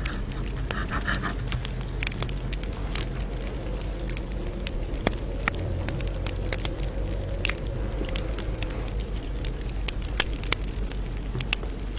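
Campfire crackling: irregular sharp pops and snaps, a few louder than the rest, over a steady low background.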